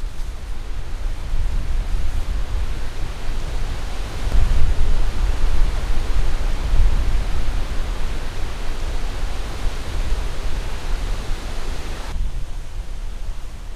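Strong storm wind gusting, with a deep rumble of wind buffeting the microphone under a loud rushing hiss; the hiss eases near the end.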